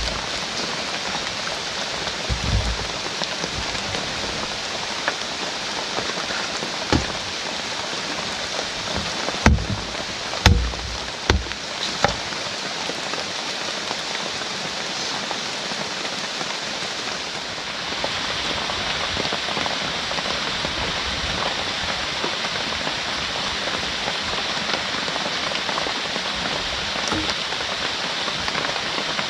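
Heavy rain falling steadily, with a few dull knocks in the first half, and the rain growing a little louder about two-thirds of the way through.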